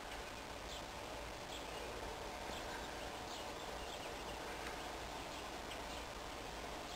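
Steady faint background noise with a bird chirping over and over, a short high note roughly once a second.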